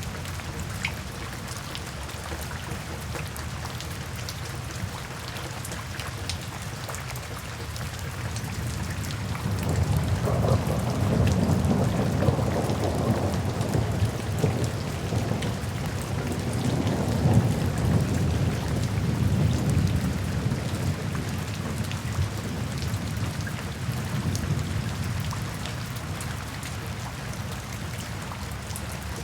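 Steady rainfall with patter of raindrops, and a long low rumble of thunder that builds about a third of the way in, swells twice and slowly fades away.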